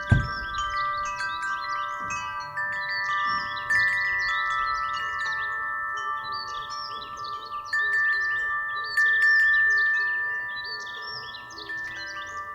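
Wind chimes struck by the wind at irregular moments, their several tones ringing on and overlapping. There is a brief low thump right at the start.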